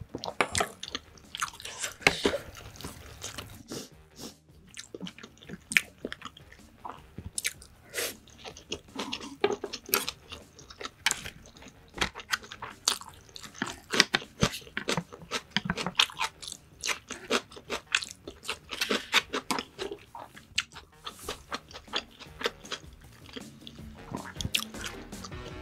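Close-miked eating sounds: a person chewing food, with many short wet mouth clicks. Music starts near the end.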